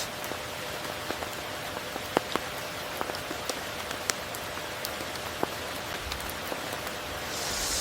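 Steady tropical rain: an even hiss with many scattered, sharp individual drop hits, swelling briefly into a brighter hiss at the very end.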